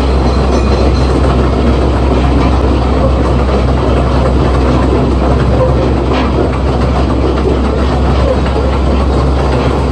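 Zoo train running steadily along its track, heard from aboard a car: a loud, continuous rumble of wheels and engine with a low hum underneath.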